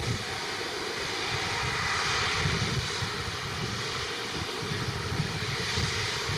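Jet airliner engines heard at a distance, a steady noise with a faint high whine running through it.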